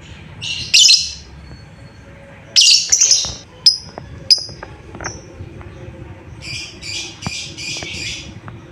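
Lovebird calling: harsh, screechy chirps in short bursts, then a quick run of about six calls near the end.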